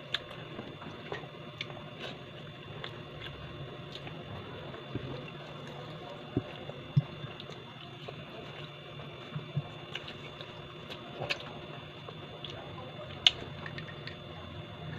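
A person eating: chewing with scattered sharp clicks, the loudest about halfway through and near the end, over a steady background hum.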